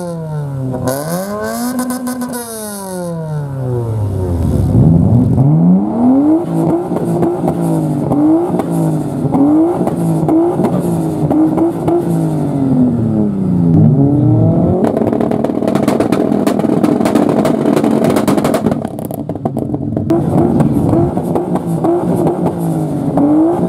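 A Suzuki rally hatchback's engine revved hard up and down in quick blips. Then the straight-six of a Nissan Skyline R33 is revved repeatedly from idle, rising and falling about once a second. A spell of dense crackling comes about two-thirds of the way in, and a short lull follows before the revving starts again.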